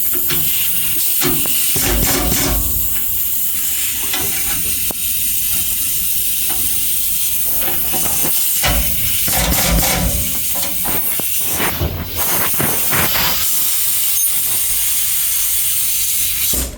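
Loud steady hiss with scattered sharp clicks and knocks, cutting off suddenly at the end.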